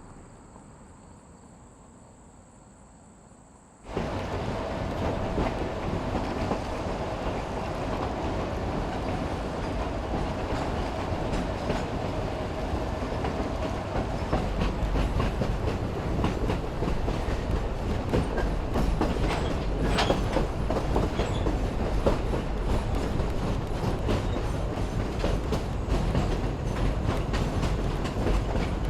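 Insects buzz in a steady high tone over quiet. About four seconds in, the sound cuts abruptly to a narrow-gauge train underway: cars rolling with a steady rumble, wheels clicking over rail joints, and a faint wheel squeal for the next ten seconds or so.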